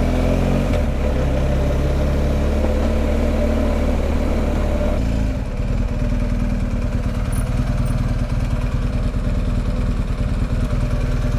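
BMW R1250GS boxer-twin motorcycle engine running steadily, its note changing to a lower, pulsing beat about five seconds in.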